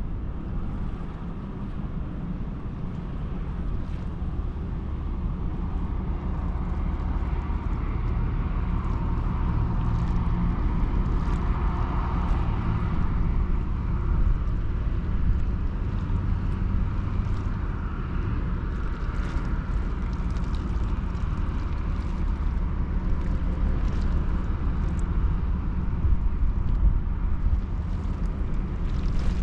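Steady low rumble of a large Ro-Ro passenger ferry's engines, with light faint ticks above it.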